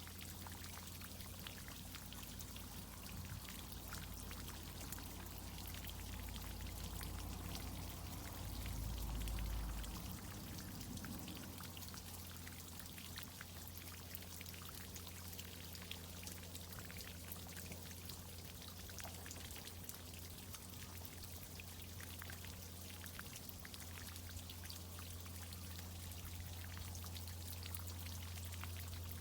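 Water from a tree irrigation system pouring and dripping, with a steady low hum underneath. The low rumble swells louder for a couple of seconds about nine seconds in.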